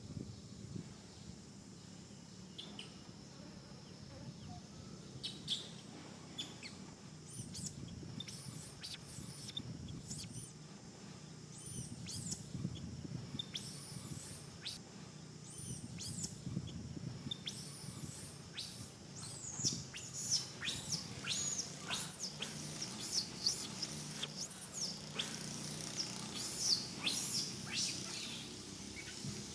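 Many short high-pitched chirping calls, sparse at first and coming thick and fast in the last third, over a steady low hum.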